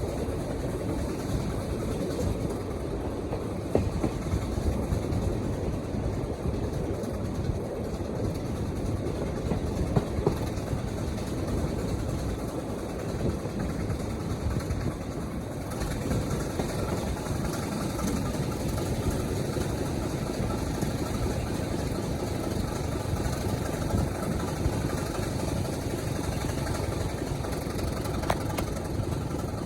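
Diesel locomotive engine running steadily, a continuous low rumble with a few faint clicks.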